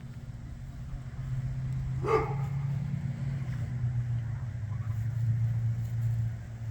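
Kubota tractor engine running steadily, getting louder about a second in. A dog barks once about two seconds in.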